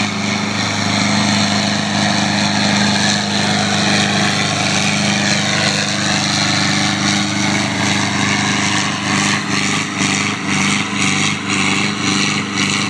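Tractor engine running loudly at a steady speed, its note holding one pitch, with the sound growing more uneven in loudness in the last few seconds.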